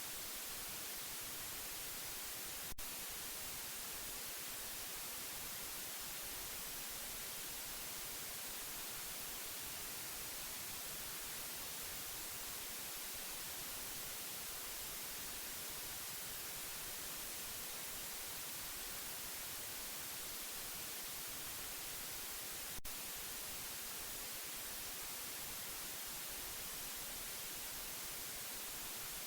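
Steady white noise, an even hiss brightest in the treble, played as a sleep aid for a baby. Two brief clicks come about twenty seconds apart.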